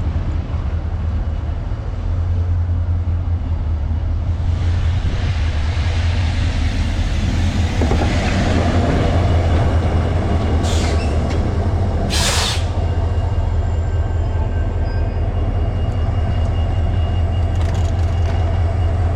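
Local passenger train running, a steady low hum with continuous rail noise, and a short sharp hiss about twelve seconds in.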